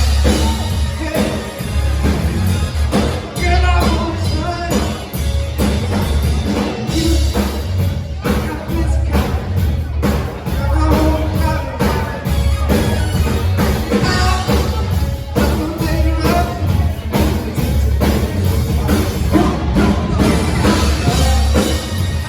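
Live rock band playing, with a drum kit and heavy bass under a melodic lead line.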